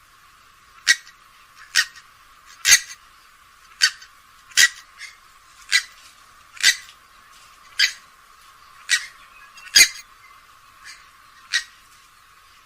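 Grey-headed swamphen giving a series of short, sharp calls, about a dozen repeated roughly once a second.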